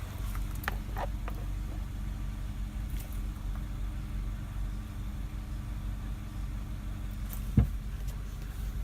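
Car engine idling steadily, with a few light clicks early and one sharp knock near the end.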